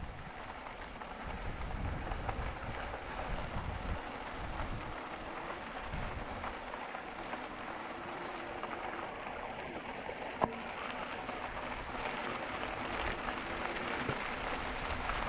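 E-bike tyres rolling along the trail surface, a steady crackly hiss, with a single sharp click about ten seconds in.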